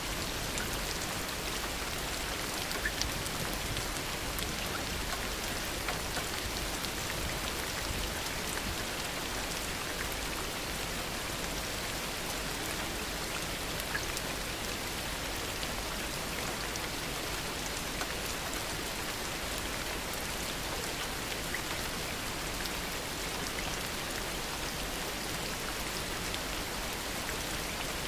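Heavy rain falling steadily: a dense, even hiss with scattered individual drops ticking on surfaces.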